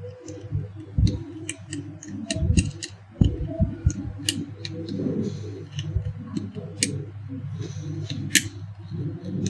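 Irregular small clicks and scrapes of a screwdriver and the electric iron's metal parts being handled while a part is fitted back on, over a steady low hum.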